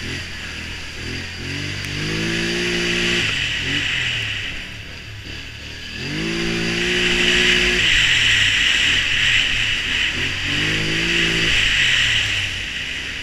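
Polaris Sportsman Touring 1000 ATV engine revving up three times as it accelerates, with its pitch rising each time, over a steady hiss.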